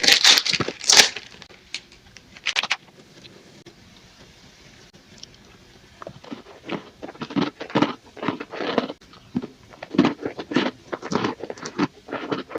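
Crunchy snack bitten and chewed close to the microphone: a few sharp crackles near the start, a quiet pause, then repeated crunching chews through the second half.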